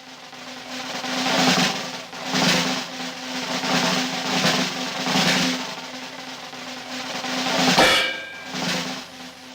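Rolling snare-drum percussion in a cartoon soundtrack, swelling and fading about once a second over a low steady tone.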